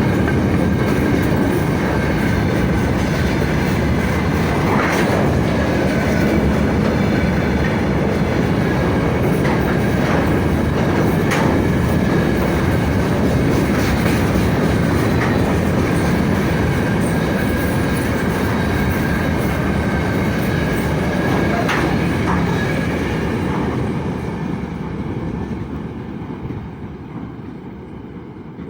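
Freight train wagons rolling past, with a dense rumble, occasional clacks of wheels over rail joints and a thin steady wheel squeal. The noise fades away over the last few seconds as the train moves off.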